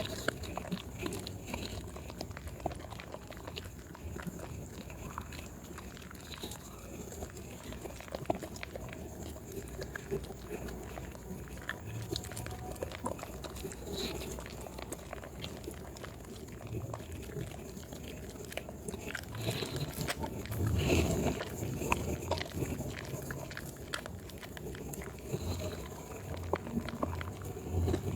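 Wet squishing and crackling of a soaked bar of Proguard yellow soap being lathered and squeezed by hand. It grows louder and fuller for a couple of seconds about three-quarters of the way through.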